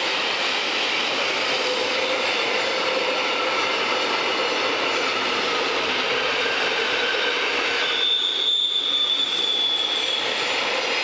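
Rhaetian Railway train running with its steel wheels squealing over a steady rumble of the cars. Several squeal tones are held at once, and a stronger high-pitched squeal rises up about eight seconds in and lasts about two seconds.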